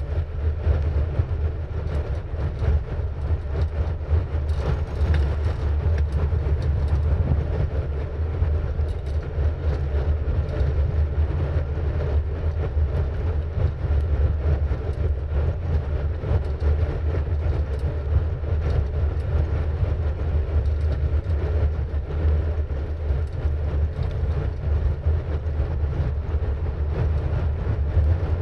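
Steady low rumble of wind buffeting a bike-mounted camera's microphone while riding, mixed with tyre and road noise.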